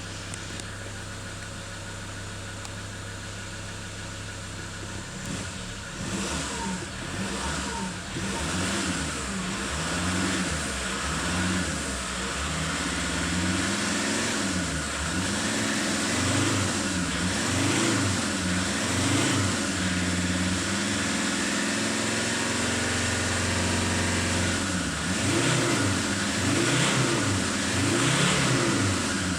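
2017 Mazda BT-50's 3.2-litre five-cylinder turbo-diesel idling, then revved in repeated quick blips from about five seconds in. There is a short steady stretch in the middle before more blips near the end.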